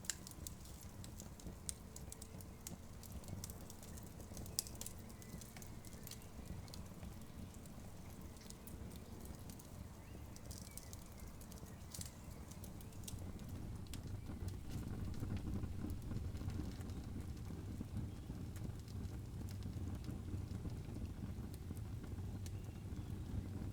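Wood campfire crackling, with frequent sharp pops and snaps. A low rumbling noise underneath grows louder a little over halfway through.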